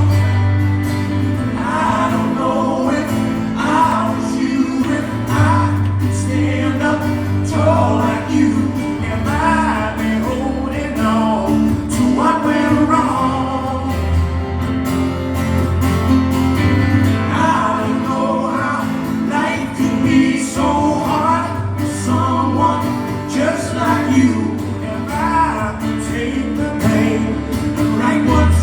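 Live acoustic music: a male voice singing over acoustic guitar, with steady low notes underneath.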